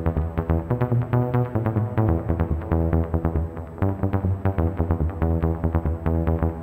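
Electronic trance riff from synthesizers: a quick run of short, plucked synth notes over a sustained bass line.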